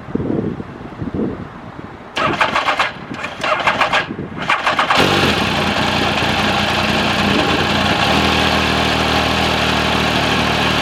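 Benelli Tornado RS900's three-cylinder engine cranked on the starter in a few short stuttering bursts, catching about five seconds in and then running at a steady idle.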